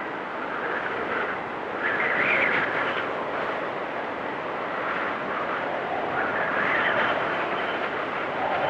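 Wind storm blowing hard and steadily, swelling into stronger whistling gusts about two seconds in and again near the end.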